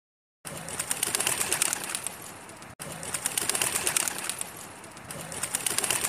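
Pigeon cooing, a short clip of a little over two seconds repeated back to back, starting abruptly about half a second in.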